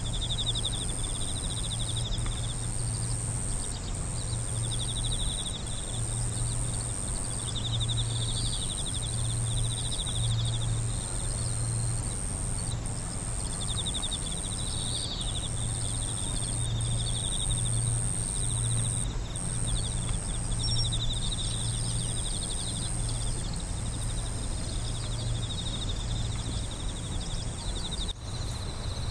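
Night insects, crickets among them, chirping in repeated trilled bursts over a steady high-pitched drone, with a low hum underneath.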